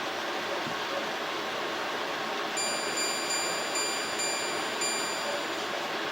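Portable air conditioner running, a steady rush of fan and air noise. From about two and a half seconds in, a high-pitched electronic tone pulses for about three seconds.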